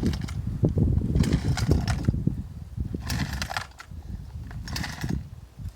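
Small two-stroke chainsaw engine running rough and uneven, surging in bursts. It is a barely working saw running out of fuel.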